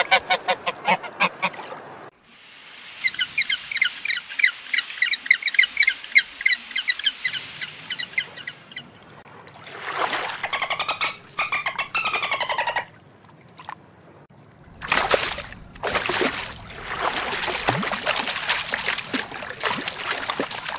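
Ducks and geese calling in a run of short clips: rapid, repeated quacks and honks, with a long stretch of quick chattering calls early on. Near the end the calls give way to a noisier stretch with sharp clicks.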